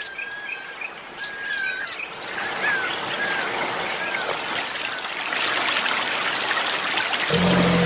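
Running river water with birds calling over it: a short whistled note repeated every half second or so, and high chirps. The water noise grows louder about five seconds in, and a low droning tone starts near the end.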